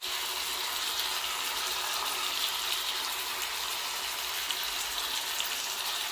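Talakitok (trevally) fish steaks with onions and red bell peppers sizzling steadily in hot oil in a pan.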